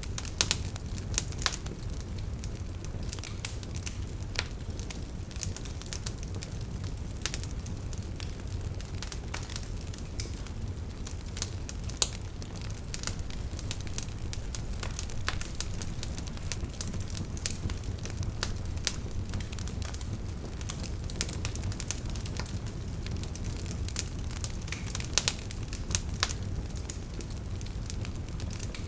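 Campfire of burning firewood crackling, with irregular sharp pops and snaps over a steady low rumble of the flames.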